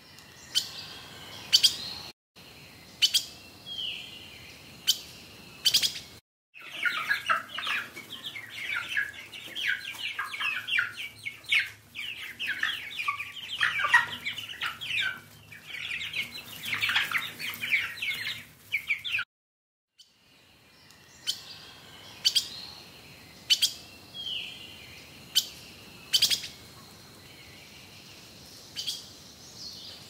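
Birds chirping: sharp single chirps about once a second, and in the middle a dense, overlapping chatter of many bird calls for about twelve seconds.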